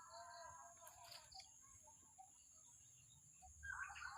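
Faint, distant birds calling over a steady high-pitched insect drone, with a busier run of chirping setting in near the end.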